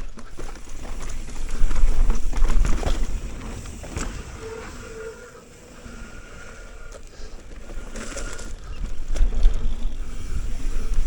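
Mountain bike descending a sandy dirt trail: wind buffeting the microphone, tyres rolling and crunching over the dirt, and the bike knocking and rattling over bumps. It is loudest a couple of seconds in and again from about eight seconds on.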